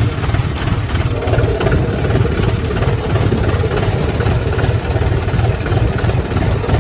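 John Deere tractor's diesel engine running steadily at a low, pulsing idle, loud and close.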